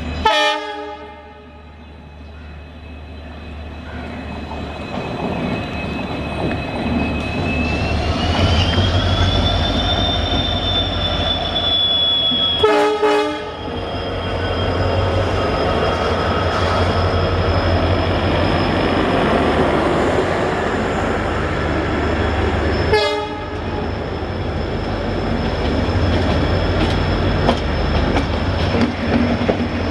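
EMD WDP4B diesel locomotive's turbocharged two-stroke V16 accelerating under load: a steady low rumble growing louder, with a high turbocharger whine that rises in pitch about eight to ten seconds in, the 'jet engine' sound. Three short horn blasts sound, right at the start, about thirteen seconds in and about twenty-three seconds in.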